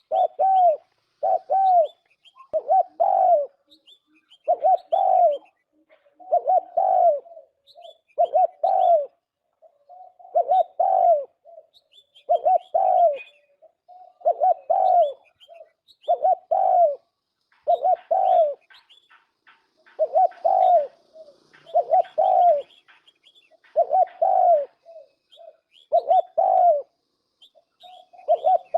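Turtle dove cooing: short groups of rounded, arching coo notes repeated about every two seconds, with faint high chirps between them.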